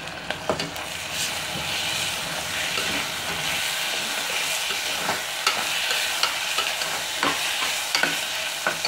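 Sliced onions and ginger-garlic paste sizzling in hot oil in a pressure cooker while a slotted spatula stirs them, scraping and clicking against the pot. The sizzle grows louder about a second in.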